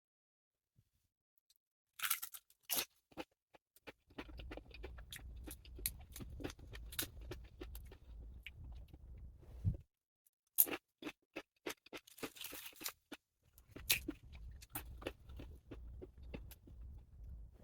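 Close-miked eating: sharp crunches and clicks of biting, then steady, rapid chewing and mouth sounds, broken by a short pause about ten seconds in.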